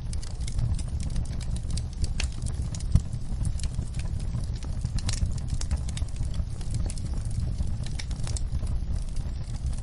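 Wood fire in a fireplace crackling, with scattered sharp pops over a steady low rumble. One pop about three seconds in is louder than the rest. Rain patters on a window in the mix.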